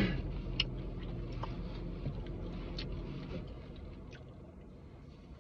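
Low steady hum of an idling car heard from inside the cabin, easing off somewhat in the second half, with a few faint clicks of chewing and mouth sounds.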